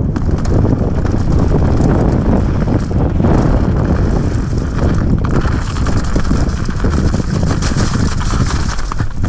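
Wind rushing over the camera microphone as a Canyon Strive AL 5.0 full-suspension mountain bike descends a rough, wet trail, mixed with tyre roar and the frame and chain rattling over bumps.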